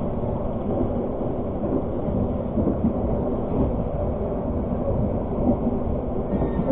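Argo Parahyangan passenger train running along the line, a steady low rumble of wheels on rail.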